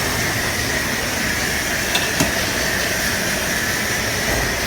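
Steady hiss and hum of a large commercial galley kitchen's running equipment and ventilation, with a faint steady high tone and two light clicks about two seconds in.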